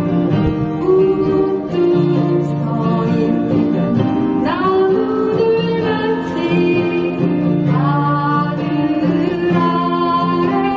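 A voice singing a Korean ballad with acoustic guitar accompaniment, long notes held and sliding into pitch.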